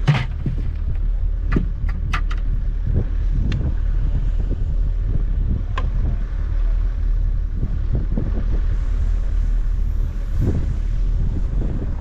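A vehicle engine running with a steady low rumble, with scattered clicks and knocks over it.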